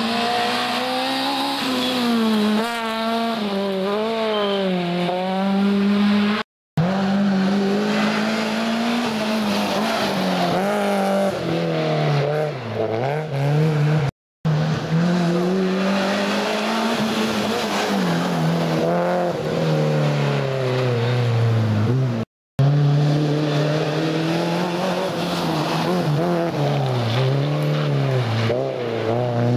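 Rally car engines revving hard, the note rising and falling with the throttle and gear changes as the cars drive a special stage. The sound comes in four short clips, with sudden cuts between them.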